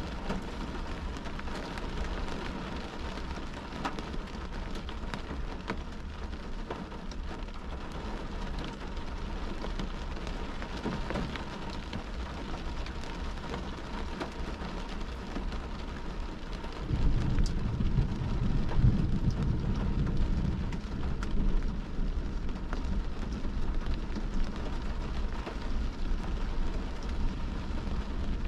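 Rain falling on a car's windshield and roof, heard from inside the car, with many individual drops ticking. About two-thirds of the way through, a louder low rumble comes in and stays.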